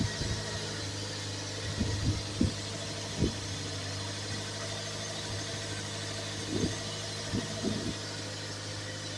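2000 Toyota MR2 Spyder's 1.8-litre 1ZZ-FE four-cylinder idling steadily at a raised cold-start fast idle of about 1500 rpm, with a few dull thumps around two, three and seven seconds in.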